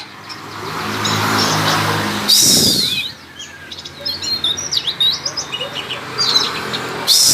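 Oriental magpie-robin (kacer) singing in the harsh, scratchy style bird keepers call 'konslet'. A loud harsh burst with sweeping notes comes about two and a half seconds in, then a run of short, quick, varied chirps, and another harsh burst at the end.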